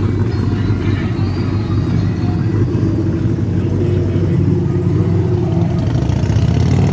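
Car engine running with a steady low rumble, its pitch rising slightly in the last few seconds.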